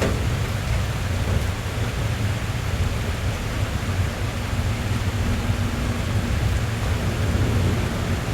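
Steady rain on a car's roof and windows heard from inside the cabin, an even hiss over a constant low rumble, with a faint steady hum joining about five seconds in.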